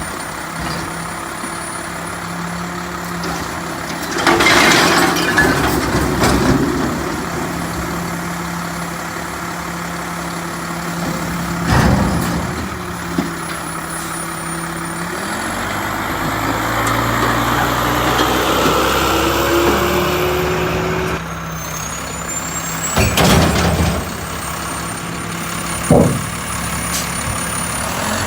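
Mack LEU recycling truck engine running near idle, with a stretch in the middle where it revs up, rising in pitch for several seconds. Loud bursts of noise come about four seconds in and again near the end, and sharp knocks come twice.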